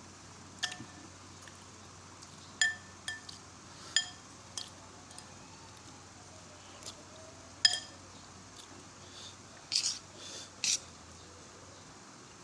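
Metal spoon clinking against a porridge bowl several times while eating, each tap ringing briefly on a clear pitch. Two short harsher sounds come near the end.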